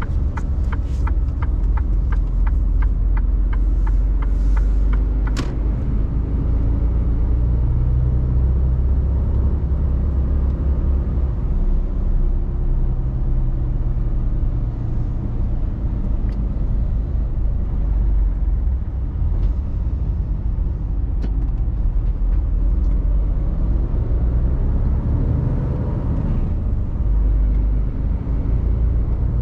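Mercedes-Benz Actros truck's diesel engine running, a steady low rumble heard from inside the cab, its note rising and falling slightly with the drive. A quick run of even ticks comes near the start, with a few single clicks later.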